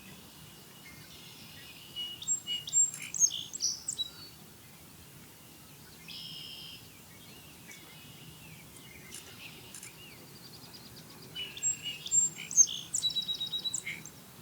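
A small songbird singing: two rapid, varied song phrases with sharp high notes, one about two seconds in and one near the end, with a short buzzy note in between.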